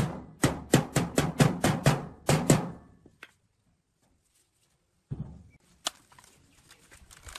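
A fast run of sharp, uneven knocks, about four a second, that stops about three seconds in after one last knock. After a gap of dead silence, a faint background with a few light clicks comes in.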